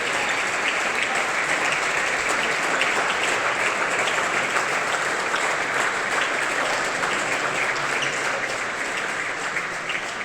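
Audience applauding steadily, a dense patter of many hands clapping that tails off near the end.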